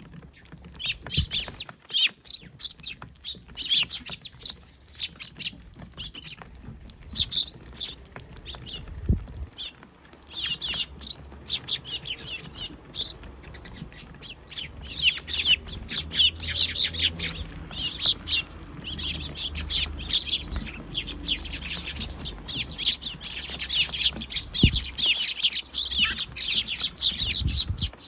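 A flock of Eurasian tree sparrows, juveniles among them, chirping over and over in quick short notes, busier in the second half.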